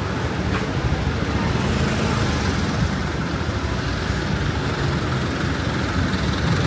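Road traffic: motor vehicles running past in a steady low rumble.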